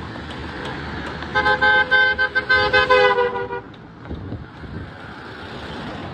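A vehicle horn honking: a two-note horn sounded in a quick series of short blasts for about two seconds, starting a little over a second in, over steady road traffic noise.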